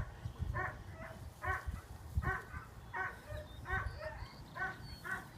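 A dog barking repeatedly in short, fairly high-pitched barks, about one every three-quarters of a second.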